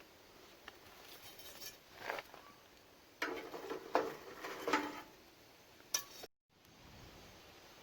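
Light clinks and clattering of hard objects being handled, a few at first, then a busy cluster a few seconds in and one sharp click near the end, after which the sound cuts out briefly.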